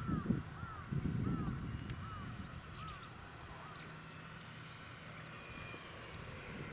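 A bird calling over and over: about six short rising-and-falling calls, evenly spaced, fading out about halfway through. Low wind rumble on the microphone at the start.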